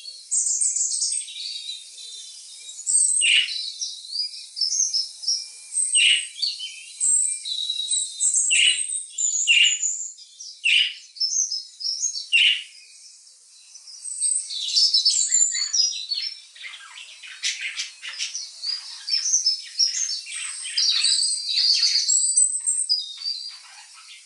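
Birds chirping and calling: bright high chirps and many short calls that sweep down in pitch, growing into a dense, overlapping chatter about two-thirds of the way in.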